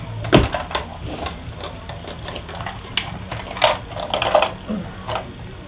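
Irregular clicks and knocks of a plastic toy tractor being handled and bumped, with one louder knock about a third of a second in.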